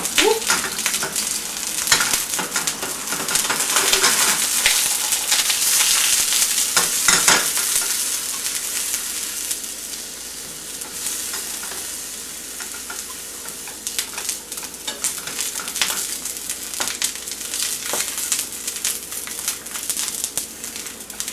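Eggplant halves sizzling and crackling in hot oil in a frying pan, freshly topped up with a tablespoon of oil. The sizzle is loudest in the first several seconds and then gradually settles. Light clicks come from chopsticks shifting the pieces against the pan.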